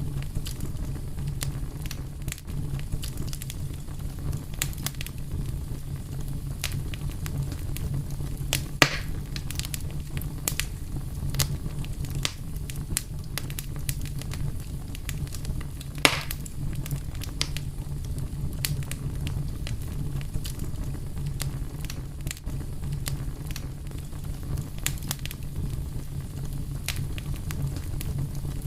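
Wood fire burning with a steady low rumble and frequent small crackles, and a couple of louder pops from the burning logs.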